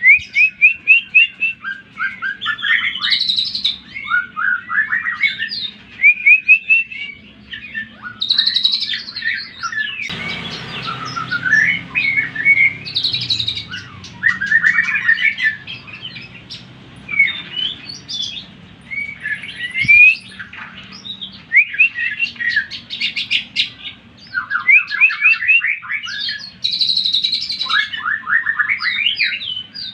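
Cucak ijo (green leafbird) singing a fast, loud chattering song: runs of quickly repeated slurred notes with short breaks between phrases. A faint steady low hum runs under it. This is the excited, aggressive singing that such pancingan tracks are played to provoke in a caged cucak ijo.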